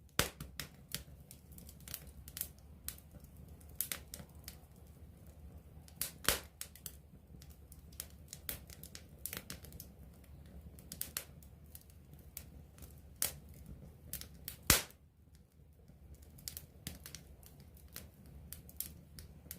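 Wood campfire crackling close up: irregular sharp pops and snaps, two louder pops about six and fifteen seconds in, over a low steady rumble of the flames.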